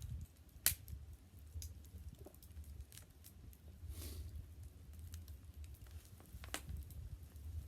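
Wood bonfire crackling, with scattered sharp pops, the loudest about a second in and another near the end, over a low steady rumble of wind on the microphone.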